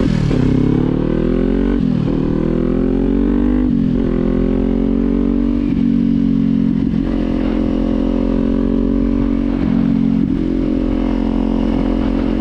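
Kawasaki Z400 parallel-twin engine and exhaust under way: the revs climb and drop sharply with quick upshifts about every two seconds at first. It then settles into a near-steady cruise.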